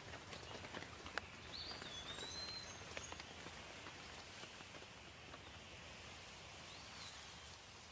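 Soft rain falling, with scattered drips and a few faint bird chirps about two seconds in.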